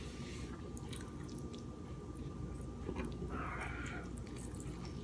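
A person eating king crab legs: quiet chewing with scattered small clicks and a brief rustle a little past the middle.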